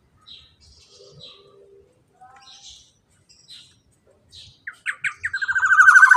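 Black-naped oriole (kepodang) calling: soft short chirps about once a second, then near the end a loud, fast rolling trill, the long 'ropel', that grows louder.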